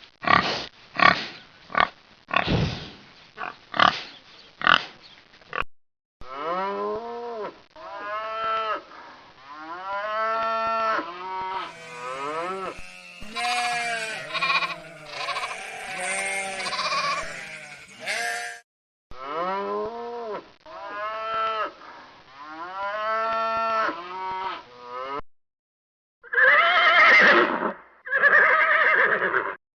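Farm animals calling, one clip after another: a quick run of short sharp calls, then many pitched calls that rise and fall, each under a second long, and two loud, harsh calls near the end.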